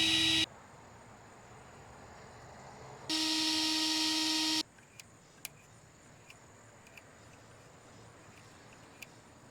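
Power drill running at a steady speed in two short bursts, the second lasting about a second and a half: a constant whine over a hiss as it drills out broken bolts through a guide plate. A few faint clicks follow.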